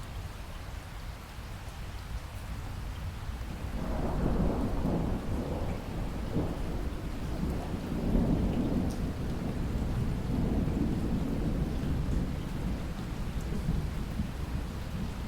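Steady rain falling, with a long roll of thunder that swells about four seconds in and rumbles on through the rest, loudest about eight seconds in.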